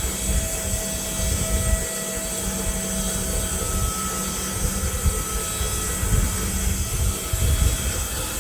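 Woodland Mills HM126 bandsaw mill running, its petrol engine driving the band blade through a log: a steady hum over an uneven low rumble.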